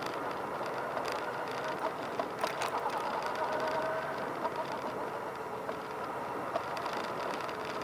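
Motorcycle engines running, a steady mechanical noise with a few sharp clicks about two to three seconds in.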